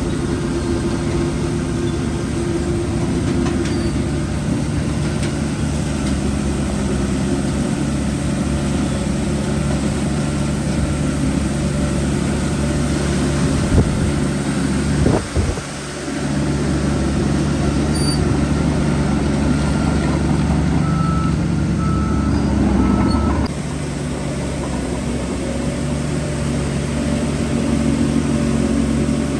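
Heavy diesel engine of earthmoving machinery running steadily, with a sharp knock about halfway through. A few short high beeps sound shortly before the engine sound changes abruptly near the end.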